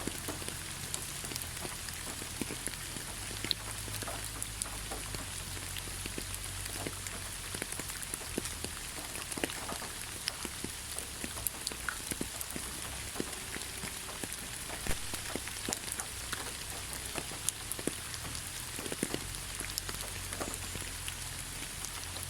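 Steady rain falling in a pine forest: an even hiss with many sharp individual drops striking close by throughout.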